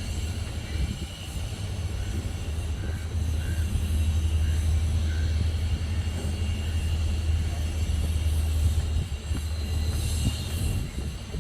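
Outdoor city ambience dominated by a steady low rumble of distant traffic or machinery, heaviest through the middle. A few faint bird chirps come a few seconds in, over a soft hiss.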